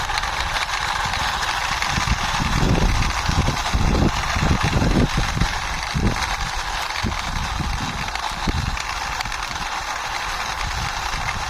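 Plastic toy police car pushed along by hand: irregular low rumbles and bumps of its wheels rolling and of handling, heaviest in the middle of the stretch, over a steady background hiss.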